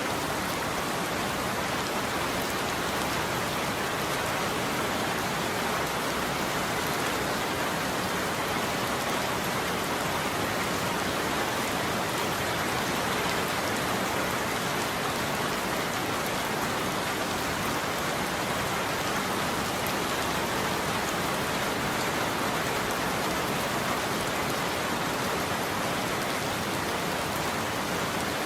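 Steady heavy rain falling on a surface: an even, unbroken hiss with no thunder.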